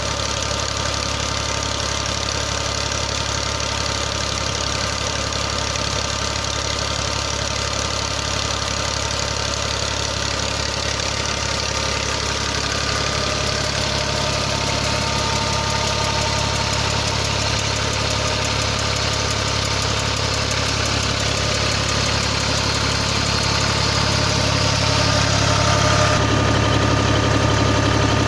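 New Holland Ghazi tractor's diesel engine running steadily, driving a tubewell pump through a shaft, growing a little louder near the end.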